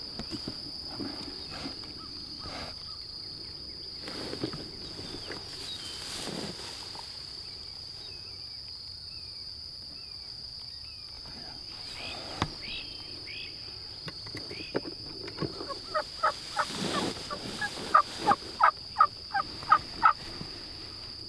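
A steady high insect trill, like crickets. Near the end comes a run of about eight loud, evenly spaced turkey yelps.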